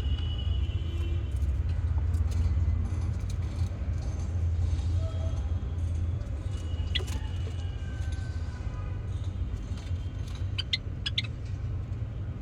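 A steady low rumble dominates, with scattered short chirps and calls from Java sparrows in the aviary, a few clustered about seven seconds in and again near the end.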